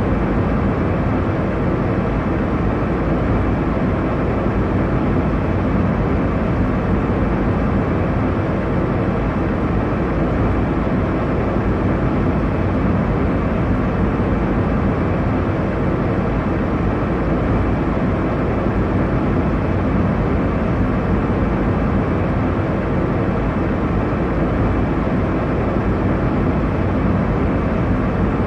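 Airliner cabin noise in flight: a steady, even rush of engine and airflow noise, strongest in the low range, with a faint low hum and no changes.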